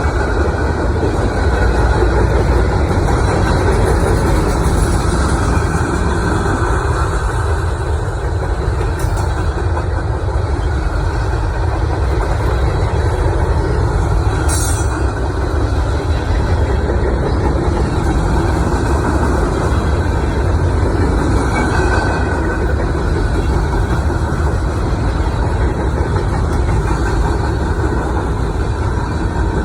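Heavy engines running with a steady low rumble.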